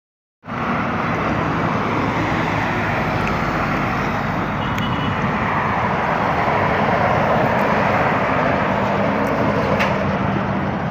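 Road traffic noise: vehicle engines running and tyres on the road, starting suddenly about half a second in and staying steady, with a slight swell partway through.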